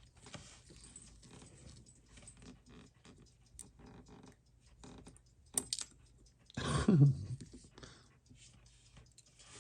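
Faint clicks and rustles of small parts and tools being handled at a watch bench, a sharp click a little past halfway, then one short loud voiced sound that falls in pitch.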